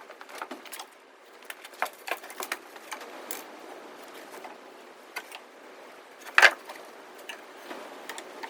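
Irregular sharp knocks and clicks, about a dozen spread unevenly, with one much louder knock about six and a half seconds in.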